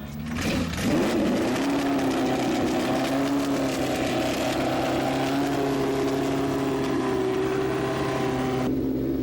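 A classic car's engine running steadily at a constant speed, with an even hiss over it that stops abruptly near the end.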